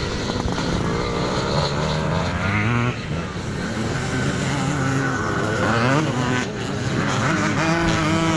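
Several vintage twinshock two-stroke motocross bikes revving hard, their engine notes rising and falling in pitch as they race past and through the turns.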